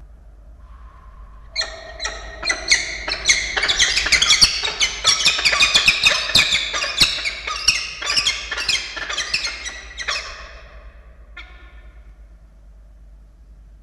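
Peregrine falcons calling in a long run of rapid, harsh, repeated notes that starts about a second and a half in and dies away after about nine seconds, with one short call after a pause. These are the excited calls of the pair around a prey delivery from the male to the female.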